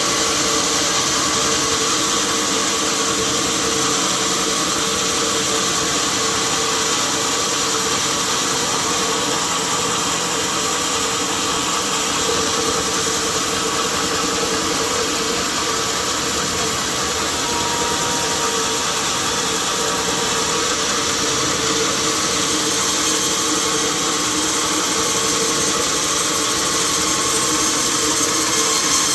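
Sawmill machinery running steadily: a constant, unchanging mechanical noise with a steady hum.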